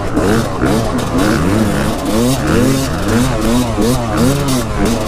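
Dirt bike engine revving up and down over and over, about three rises and falls a second, as the rider works the throttle while riding a trail.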